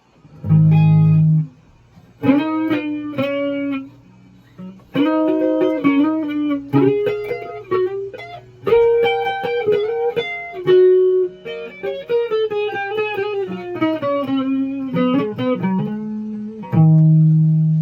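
Electric guitar played in short phrases of single notes with brief pauses between them, a low held note at the start and again near the end, and some notes bent downward in pitch.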